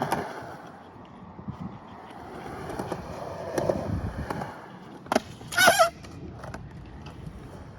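Skateboard wheels rolling over concrete with a rumbling hiss, then a sharp clack about five seconds in, followed at once by a short, wavering, high-pitched squeal.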